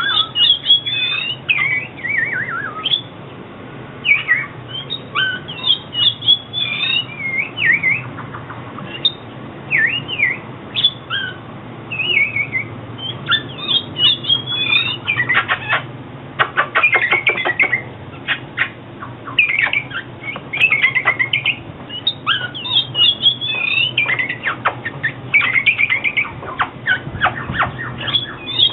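Oriental magpie-robin singing: a varied string of short whistled phrases that glide up and down, broken in places by quick runs of rapidly repeated notes.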